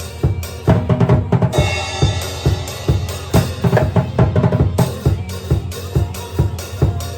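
Drum kit played along to a heavy-metal song: bass drum and snare hits several times a second over the band's guitars and keys.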